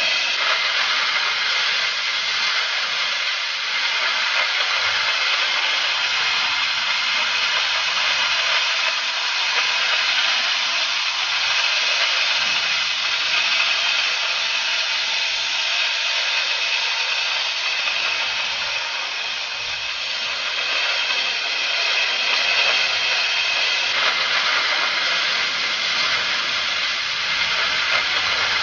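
Oxy-fuel cutting torch of a Huawei HK12 track-type cutting carriage hissing steadily as it cuts, with a slight dip in level about two-thirds of the way through.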